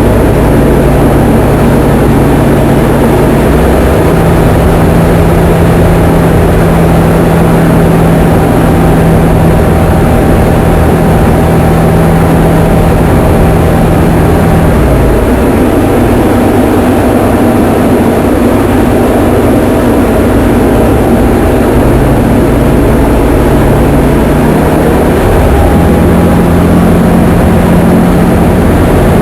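Diamond DA20 light aircraft's piston engine and propeller running steadily and loudly, heard from inside the cockpit. The engine note steps up a few seconds in, drops about halfway through, and rises again near the end as engine power is changed.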